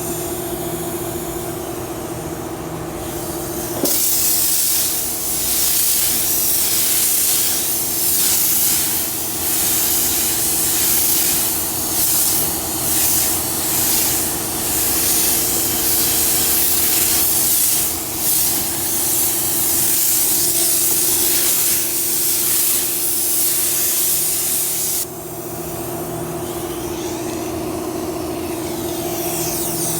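Body-shop power tool running with a steady whine. From about four seconds in until about twenty-five seconds, a strong hiss comes in repeated strokes.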